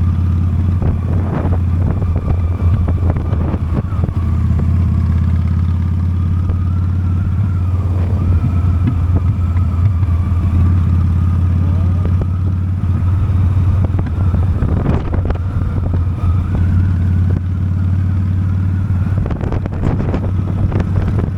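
Honda Steed motorcycle's V-twin engine running steadily at a low cruising speed, heard from the bike, with a few short knocks.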